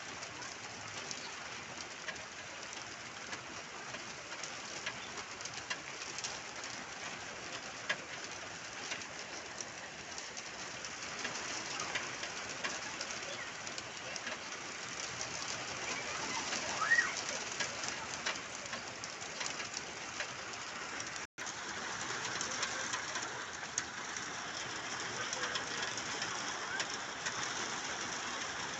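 Steady rain hiss with fine patter and pigeons cooing, plus another bird's short chirp partway through.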